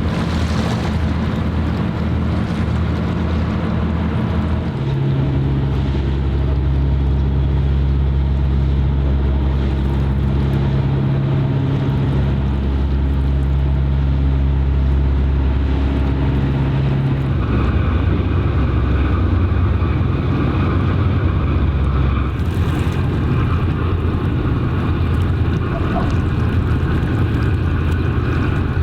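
Steady low diesel engine drone of a harbor vessel. The hum shifts in pitch about five seconds in, and a higher whine joins it a little past the middle.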